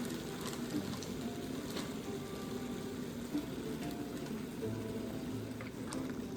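Chicken pieces sizzling steadily as they fry in a pan with garlic and onions, with a few light clicks.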